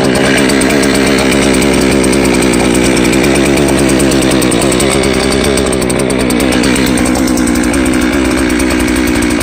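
62cc TimberPro two-stroke chainsaw running steadily, warming up just after a cold start at around freezing.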